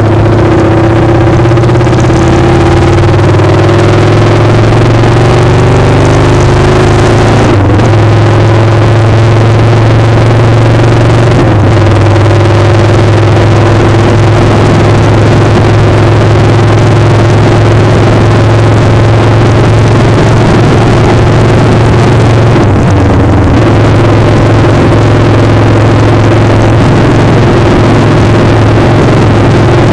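Motorcycle engine running steadily while riding, loud against a heavy rush of noise. The engine note dips and shifts briefly a few times.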